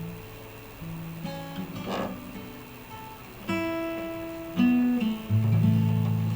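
Acoustic guitar playing alone: a few single plucked notes ring out, then a louder chord near the end is left ringing and slowly fades.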